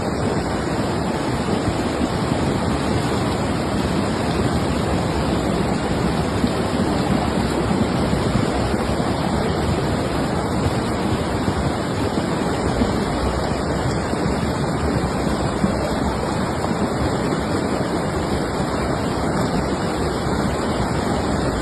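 Floodwater rushing past in a steady torrent after heavy rain.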